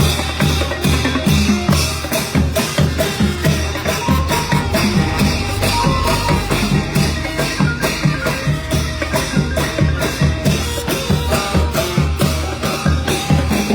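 Thai brass band (trae wong) playing procession music, horns over drums on a fast, steady beat.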